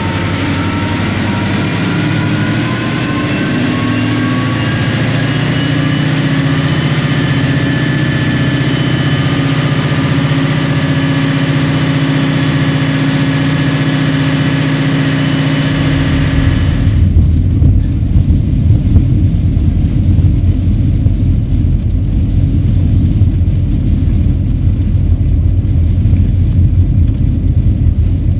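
EMD 645E3C V16 turbocharged diesel of a locomotive running under power, with a whine that rises in pitch over the first several seconds and then holds steady. About 17 seconds in the whine and all the high sound cut off suddenly, leaving a louder, deep rumble from the engine.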